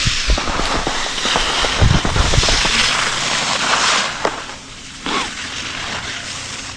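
Skis sliding and scraping over packed snow, a steady hiss that is loudest for about the first four seconds and then eases off, with wind buffeting the microphone in low thumps.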